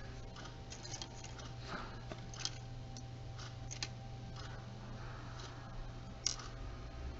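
Scattered small clicks and taps as camcorder parts and a flex cable are handled and fitted during reassembly, with one sharper click about six seconds in, over a steady low hum.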